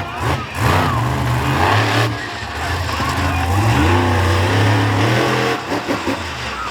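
Monster truck's supercharged V8 engine revving up and down several times, its pitch rising and falling.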